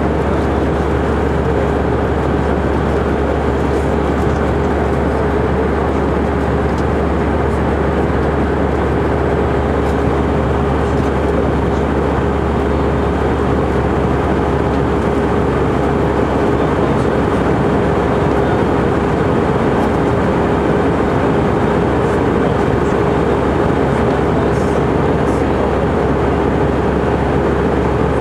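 Steady drone inside an Airbus A319 cabin, engine and airflow noise with a constant hum running through it.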